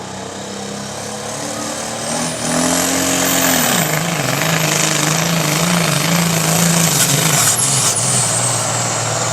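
Turbocharged diesel pickup engine running hard. About two seconds in, a high turbo whistle rises and holds as the engine gets louder; the engine note drops just before four seconds and stays loud.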